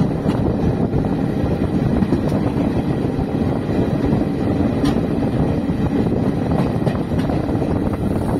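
A moving express train's running noise, heard from the open coach door: a loud, steady rumble of wheels on rails with a few faint clicks.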